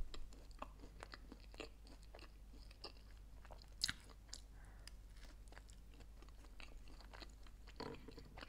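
Close-miked chewing of a bite of grilled sandwich: a faint run of soft crunches and small clicks, with a sharper crunch at the start and another about four seconds in.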